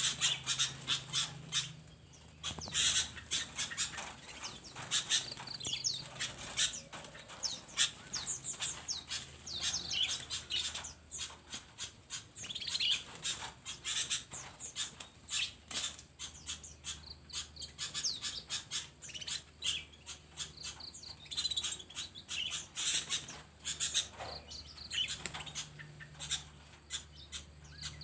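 A flock of small aviary birds chirping and calling rapidly over one another without a break, with wings fluttering among the calls.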